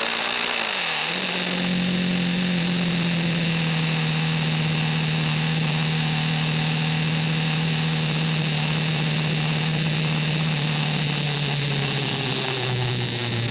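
KTM RC 390's single-cylinder engine running at steady expressway speed, its pitch dipping briefly and recovering about a second in, then falling to a lower steady note near the end. A constant high hiss of wind and road noise runs under it.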